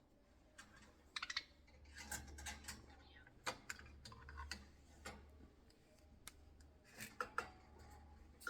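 Faint, irregular light clicks and taps, with a quick cluster of them about a second in.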